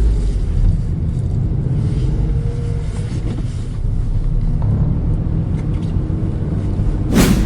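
Deep, steady rumbling ambience, with one short, loud whooshing sweep near the end.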